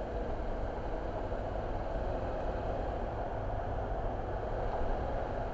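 Steady road and engine noise of a car being driven, an even rumble and hiss with no sudden events.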